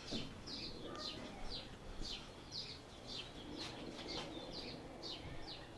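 A small bird chirping over and over: short, high notes that sweep downward, about two a second, at a steady pace.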